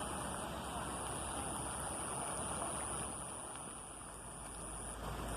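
Heavy cyclone rain falling steadily, a dense even hiss that eases a little about four seconds in.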